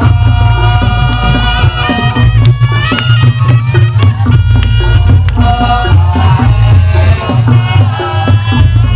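Reog Ponorogo ensemble music: a slompret, the reed trumpet of reog, plays a long wavering melody over kendang drum strokes, with a heavy steady bass.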